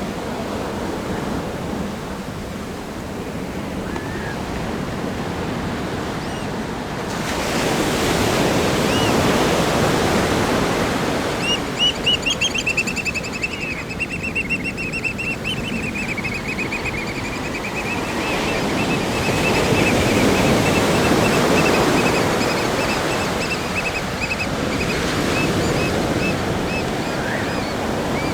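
Ocean surf breaking on a rock groin and sandy beach: a continuous rushing wash that swells twice as larger waves come in. From about halfway through, a high, rapid trill runs on over the surf.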